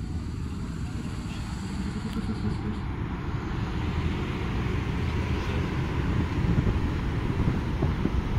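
Intercity train rolling past on the track next to the platform: a rumble of wheels on rail from the passenger coaches and then the electric locomotive. It grows louder from about halfway through as the locomotive comes alongside.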